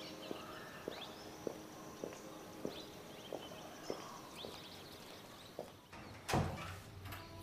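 Slow footsteps on stone paving, a little under two steps a second, with faint bird chirps. A heavy thump about six seconds in.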